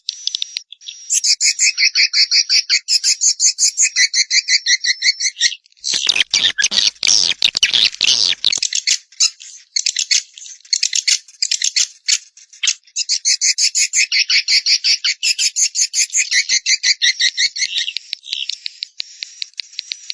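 Songbird singing in long runs of rapid, evenly repeated high notes, about seven a second, in a fast rattling chatter. A harsher, rougher stretch comes in the middle before the rapid notes resume.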